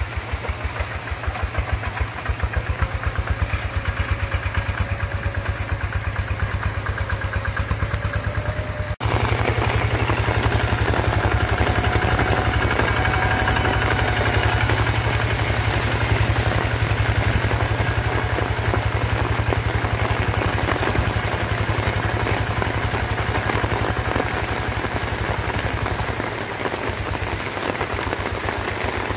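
Single-cylinder diesel engine of a two-wheel paddy hand tractor running steadily with a fast, even thudding beat, getting louder after an abrupt break about nine seconds in.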